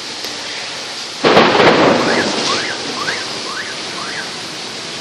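A thunderclap crashes about a second in over steady rain, then rumbles away over the next two seconds. Just after it, a tone rising and falling in pitch repeats about five times, roughly twice a second.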